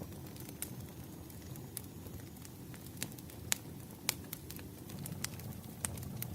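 Wood fire crackling in a fireplace: irregular sharp pops and snaps, a few a second, over a steady low rumble of the burning.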